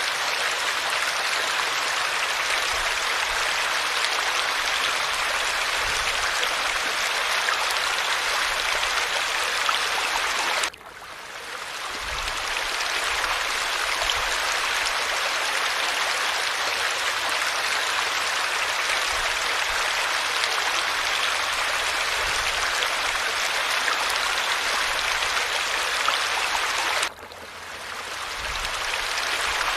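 Falling water, a steady rushing splash. Twice it drops away suddenly and fades back in over a second or two.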